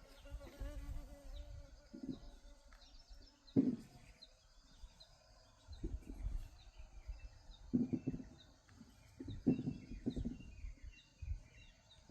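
Small birds chirping over and over, with low irregular thuds and rustles that are the loudest sounds, about three and a half seconds in and again around eight and nine and a half seconds.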